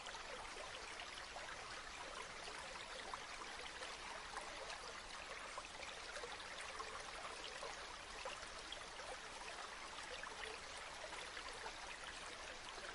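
Flowing stream water, a steady soft rush with fine trickling detail.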